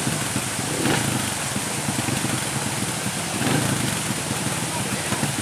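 Trail motorbike engines running under a steady hiss of rain, with brief louder swells about a second in and again a little past halfway.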